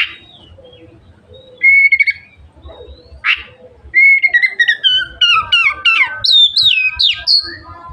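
Oriental magpie-robin (kacer) singing: a held whistled note, a sharp sweeping call, then a quick run of short falling whistles that climb higher toward the end.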